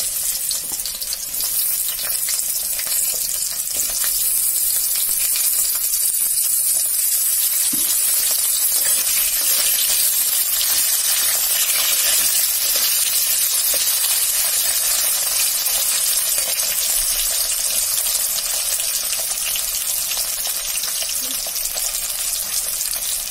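Cut potato and green papaya pieces sizzling steadily in hot oil in a wok, with a few knocks of a metal spatula stirring them.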